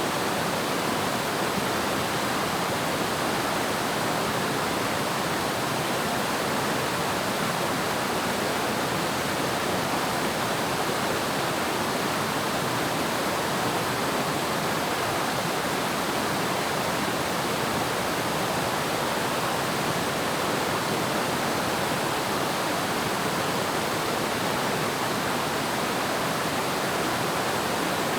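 Waterfall, a steady even rush of falling water with no change in level.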